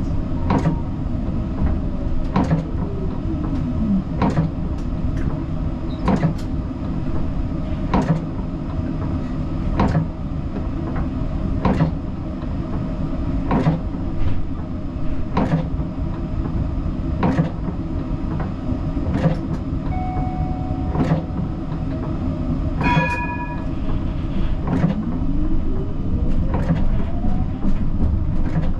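Siemens Combino tram running along its track, heard from the driver's cab: a steady rumble with a sharp click about every two seconds. The motor whine falls in pitch a few seconds in and rises again near the end, as the tram slows and then picks up speed.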